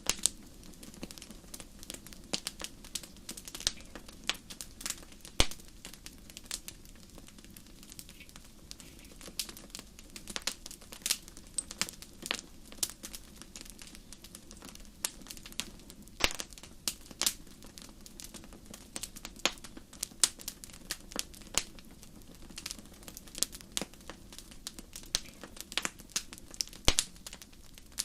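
Fire burning in a fireplace, crackling with frequent, irregular sharp pops over a low, steady rush.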